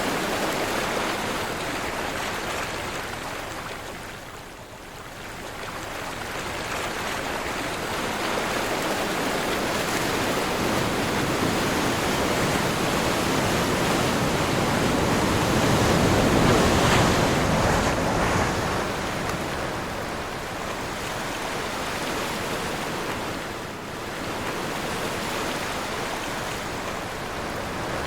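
Ocean surf on a windy day: waves rushing and breaking in a steady wash that swells and ebbs, with wind. It dips about a sixth of the way in and again near the end, and is loudest a little past the middle.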